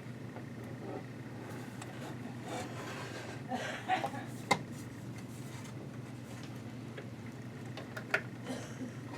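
Scattered small clicks and light knocks of sewing machine parts and tools being handled during disassembly, a cluster about halfway through and a sharp click near the end, over a steady low hum.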